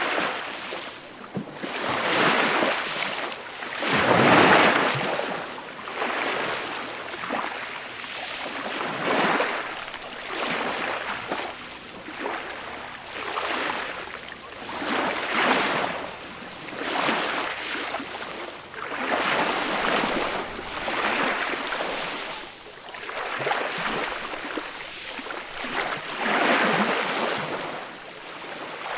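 Small waves breaking and washing up a beach, each wash swelling and fading every few seconds, one larger wave about four seconds in, with some wind on the microphone.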